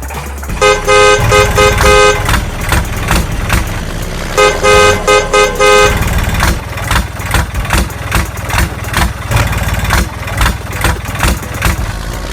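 Vehicle horn honking in two runs of quick two-tone beeps, each run about a second and a half long, the first near the start and the second about four seconds in, over a steady pulsing background.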